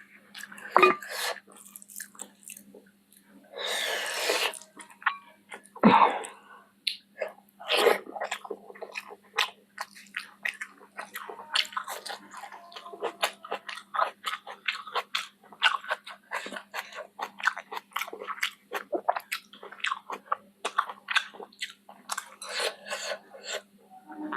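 Close-up eating sounds of chicken feet curry with rice: a steady run of wet mouth smacks, bites and crunches, with one longer noisy burst about four seconds in. A faint steady hum runs underneath.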